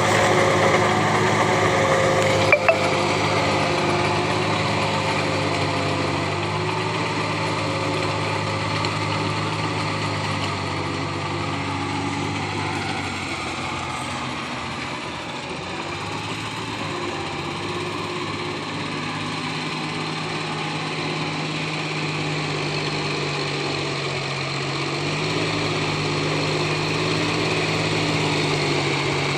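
John Deere tractor's engine running steadily. Its pitch and loudness dip a little around the middle and rise again near the end, with a sharp click a few seconds in.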